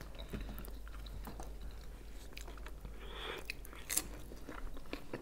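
Close-miked mouth sounds of eating khinkali dumplings and cucumber slices: biting and chewing with small wet clicks and a brief slurp about three seconds in.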